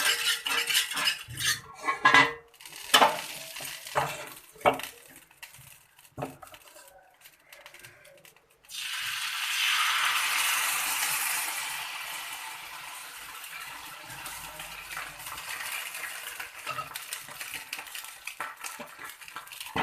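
Metal utensils clinking and knocking against a griddle, then about halfway through a sudden loud sizzle from a hot oiled tawa as rice batter goes onto it for the next pitha, slowly dying down.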